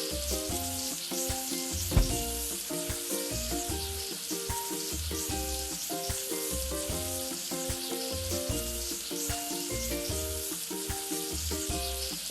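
A steady fizzing hiss, like foam being sprayed during a wash, over a simple looping tune of short notes with a regular bass pulse.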